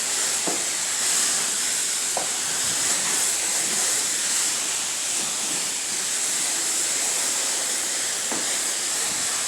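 Self-serve car wash spray wand spraying spot-free rinse water onto a car: a steady, even hiss.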